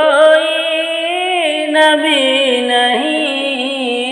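Solo voice singing a naat, an Urdu devotional song, holding long notes that waver and bend in pitch as the refrain line is drawn out.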